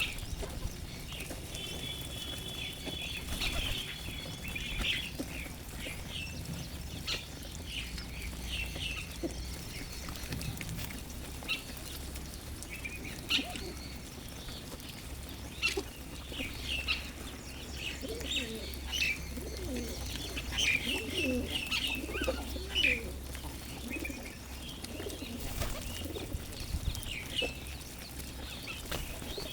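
Birds at a feeding spot: many short, high chirps throughout, pigeons cooing in low wavering calls mostly in the second half, and wings flapping now and then.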